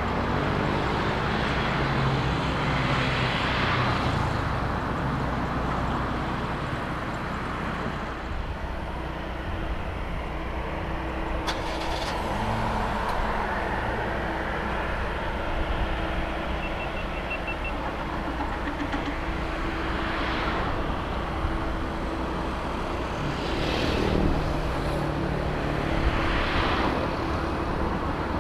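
Road traffic going by: a steady rumble of vehicles, with several passing one after another, each swelling and fading.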